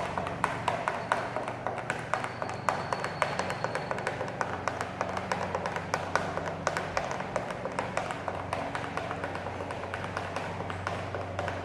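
A steady low hum with many sharp, irregular taps and clicks over it, and a faint high whistle-like tone for a couple of seconds early on.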